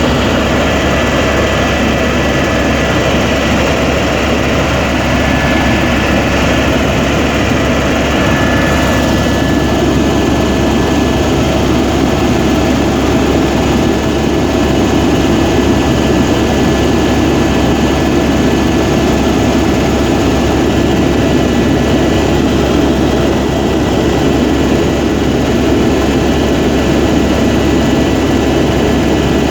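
Helicopter turbine and rotors running steadily in flight, a loud unbroken drone with a steady high whine.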